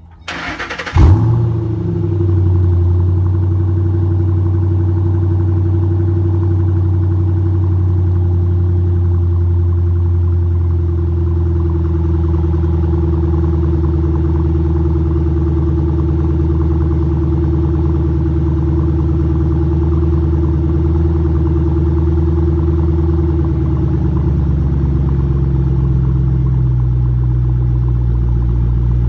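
2009 Mustang GT's 4.6-litre V8 exhaust: the starter cranks briefly and the engine catches about a second in with a loud flare, then settles into a steady idle. A little over twenty seconds later the idle drops to a lower, deeper note.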